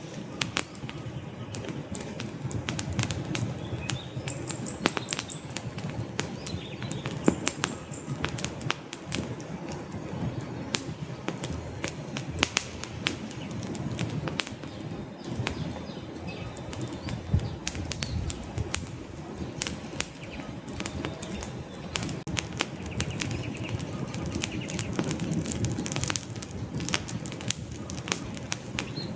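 Wood fire burning in a fireplace: frequent sharp crackles and pops from the logs over a low, steady rumble of the flames.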